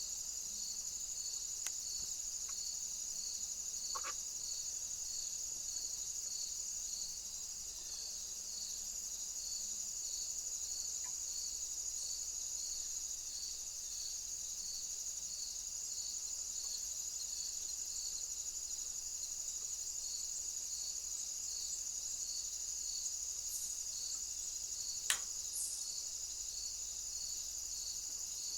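Crickets trilling steadily at a high pitch, with another insect chirping in regular pulses a little under twice a second. One sharp click near the end.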